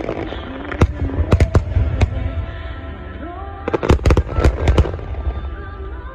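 Aerial fireworks shells bursting in two rapid clusters of sharp cracks, about a second in and again near four seconds, over a low rumble. Music plays along with them.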